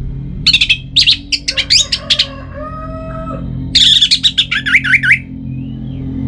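Orange-headed thrush singing two bursts of rapid, varied high notes, the first about half a second in and the second about four seconds in, over a steady low hum.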